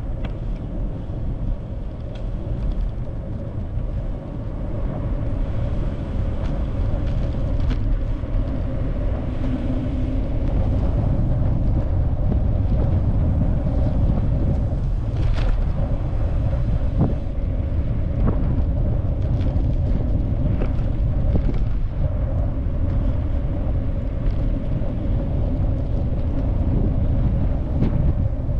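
Steady low rumble with a constant hum through it, a few faint clicks here and there.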